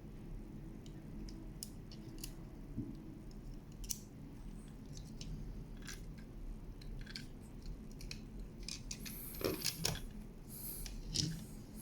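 Scattered light clicks and taps of a small die-cast and plastic toy being handled, with a quick cluster of clicks and a short rustle about nine to eleven seconds in, over a low steady hum.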